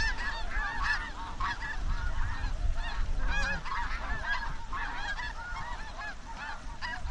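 A large flock of snow geese and Ross's geese calling: many short, high, overlapping yelps and honks in a constant clamour.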